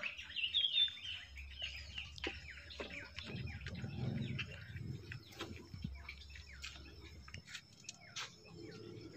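Small birds chirping in quick, repeated short calls, with a few faint clicks and knocks from hands working the wooden top bars of a beehive.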